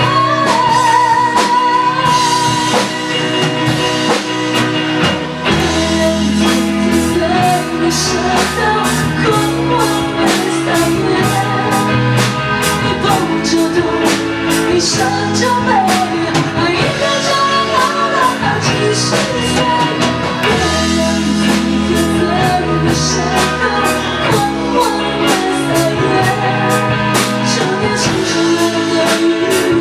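Band music with a drum kit and guitar keeping a steady beat, with singing over it.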